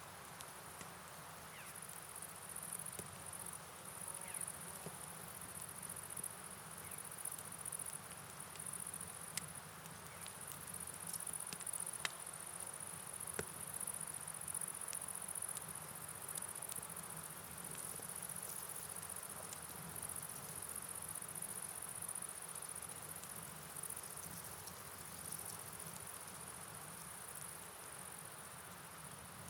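Steady high-pitched chorus of night insects, cricket-like, over a soft even hiss of rain and flowing water, with a few faint scattered ticks.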